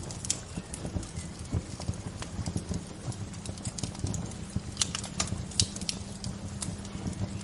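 Wood fire crackling: irregular sharp pops and snaps over a steady low rumble, with a few louder pops near the middle.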